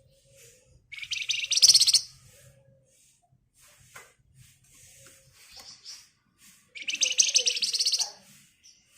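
Flamboyan (wergan Jawa) songbird giving two loud, very fast rattling trills, one about a second in and one near the end, with faint single chirps between.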